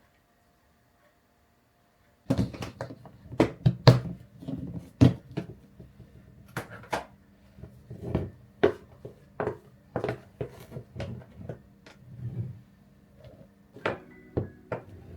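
A run of irregular clicks and knocks from objects being handled and set down, starting after about two seconds of silence.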